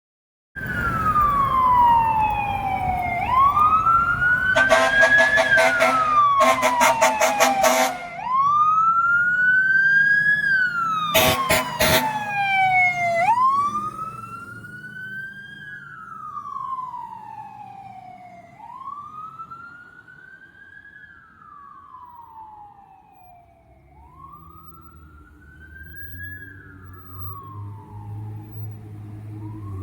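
Fire department ladder truck responding, its siren wailing up and down about every two and a half seconds, with two spells of loud air horn blasts in the first half. The siren then fades as the truck moves away, and a low engine rumble builds near the end.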